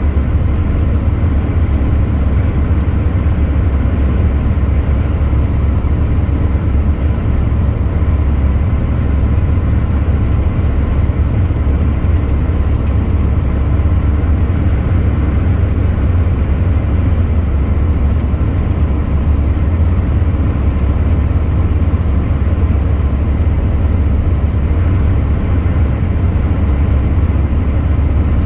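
Truck driving along, its engine and road noise making a steady low drone that holds even throughout.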